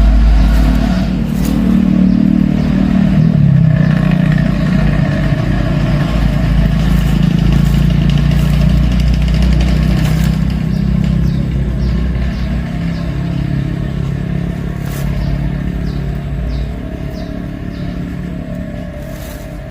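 An engine running steadily and loudly, gradually getting quieter over the last several seconds.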